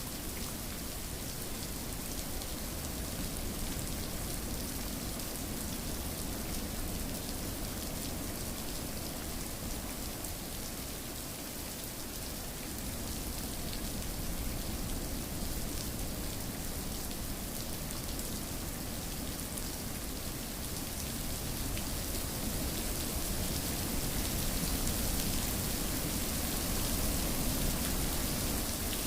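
Steady rainfall pattering on a surface, a continuous even hiss of drops with a low rumble underneath, swelling slightly in the last few seconds.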